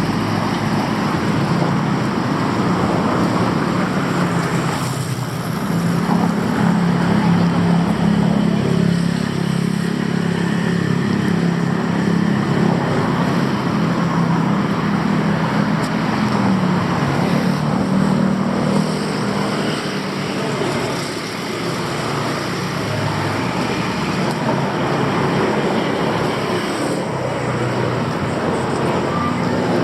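Road traffic: vehicle engines running close by, a steady low hum under a broad wash of street noise.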